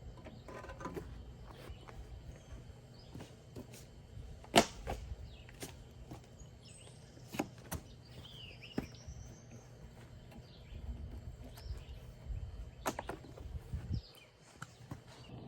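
Scattered sharp clicks and knocks of work on an engine, the loudest about a third of the way in, over a low steady hum. Birds chirp faintly in the background.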